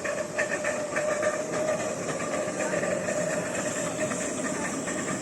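Steam-hauled train running past: wheels clattering over the rails, with a steady tone running through it.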